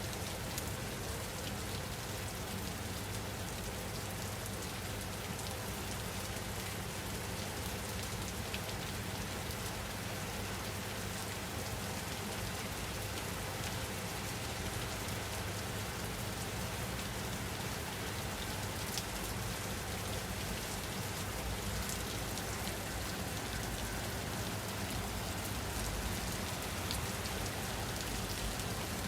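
Steady rain falling: an even hiss with scattered individual drop ticks, holding at a constant level.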